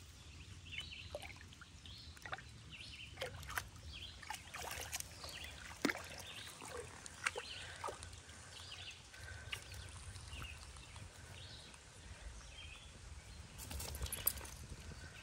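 A French bulldog wading in lake shallows: scattered small splashes and drips of water around its legs, over low wind noise.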